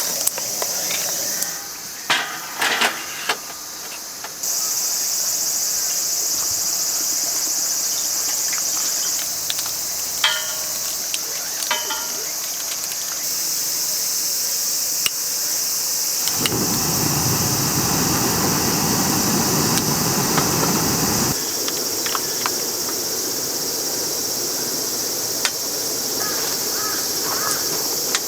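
Crickets and other autumn insects chirping in a steady high-pitched chorus, with a few light clicks and knocks now and then and a louder rushing noise for about five seconds past the middle.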